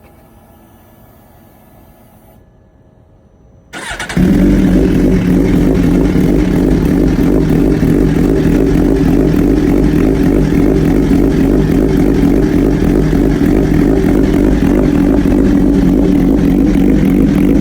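Suzuki GSX-R1000 inline-four with an Arrow Pro-Race titanium full exhaust starting from cold. After a few quiet seconds the starter cranks briefly, about four seconds in. The engine catches and settles into a loud, steady idle.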